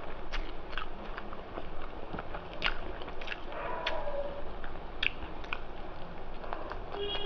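Close-up eating sounds of rice and mutton curry being chewed and bitten: irregular wet mouth clicks and small crunches.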